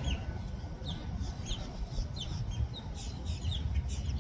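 Birds chirping: many short, quick falling calls overlapping one another, over a steady low rumble.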